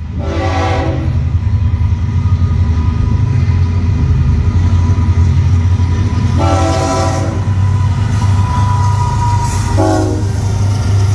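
A consist of six diesel-electric freight locomotives rumbling past, with the lead locomotive's air horn sounding three times: a short blast at the start, a longer blast about six seconds in, and a short one near the end.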